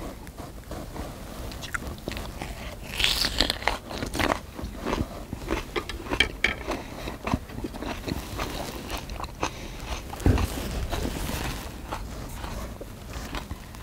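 Close-up chewing of a mouthful of spicy marinated pork: irregular wet, crunchy bites and mouth clicks. There is a single low knock about ten seconds in.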